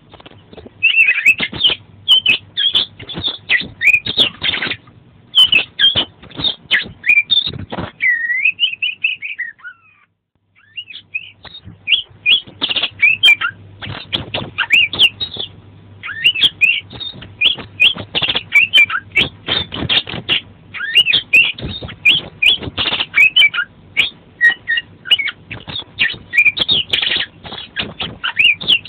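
Oriental magpie-robin (kacer) singing a long, fast run of varied whistles and chattering notes, rich in mixed-in phrases, with a short break about ten seconds in.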